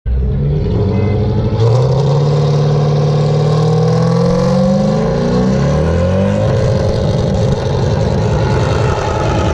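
Car engine revving hard and held at high revs in a burnout, its pitch climbing slowly for several seconds before turning rougher and noisier.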